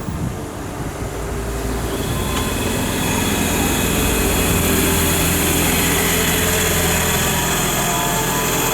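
Electric train approaching and running through a station. It grows louder over the first three seconds, then holds steady, with a rumble and a steady whine.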